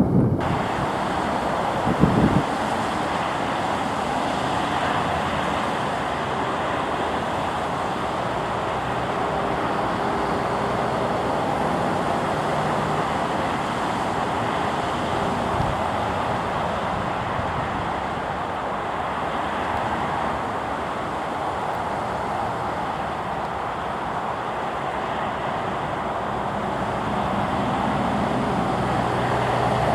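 Diesel locomotive running, a steady engine drone under continuous rumbling noise, with a brief thump about two seconds in.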